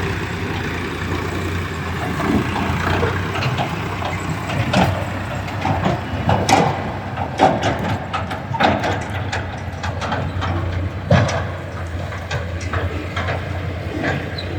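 Sonalika DI 50 tractor's diesel engine idling steadily, with irregular knocks and clatter over it, the loudest about six and a half and eleven seconds in.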